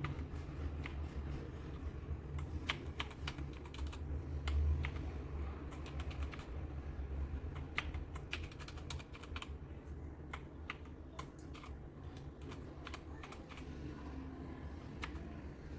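Typing on a Redragon K596 Vishnu mechanical keyboard with linear red switches: irregular key clacks at an uneven pace, over a steady low hum.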